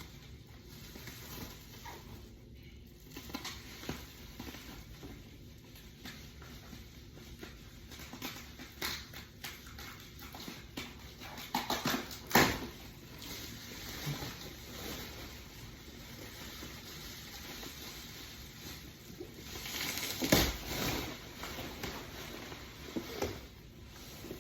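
Packaging being handled during an unboxing: scattered rustles, light taps and clicks of cardboard and plastic, with two louder bumps, one near the middle and one later on.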